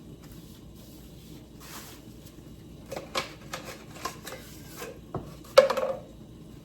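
Kitchenware clattering during clean-up: a run of light knocks and clinks, then one louder, briefly ringing clank about five and a half seconds in.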